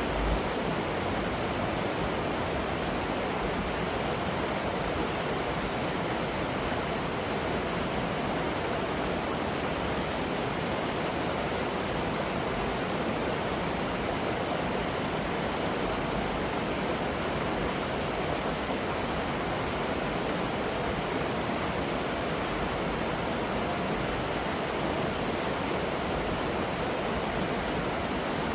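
Waterfall rushing, a steady even roar of falling water with no break.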